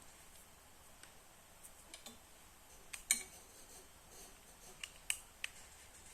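A few sharp plastic clicks and taps from handling a used smartphone. The loudest comes about three seconds in, and a quick run of three follows about five seconds in.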